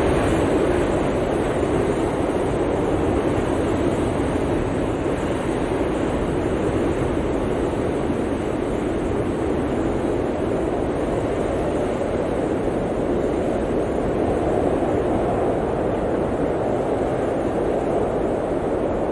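Blizzard wind blowing steadily, a dense rushing noise that swells a little near the start and again later on.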